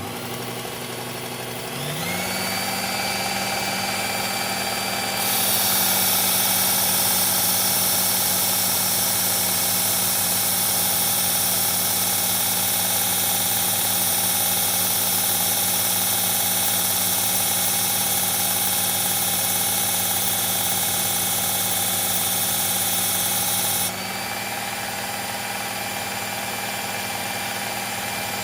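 Electric belt knife sharpener running, its motor hum rising to a steady pitch about two seconds in. From about five seconds in, an S30V steel blade is held against the moving belt with a loud grinding hiss, grinding to raise a burr. The hiss stops about 24 seconds in while the motor keeps running.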